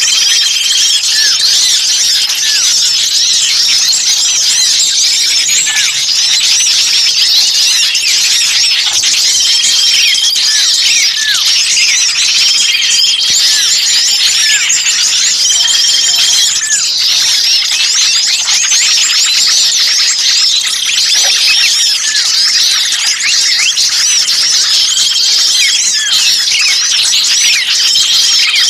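A dense chorus of many small songbirds chirping and twittering at once, with a short level whistle note recurring every few seconds. These are agitated small-bird calls used as a bird-trapping lure ("burcil ribut kejepit", noisy small birds as if caught).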